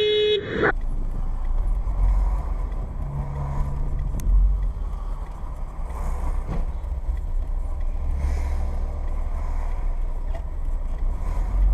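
Car driving, heard from a dashcam inside the cabin: a steady low rumble of engine and road noise. A held, pitched tone cuts off just after the start.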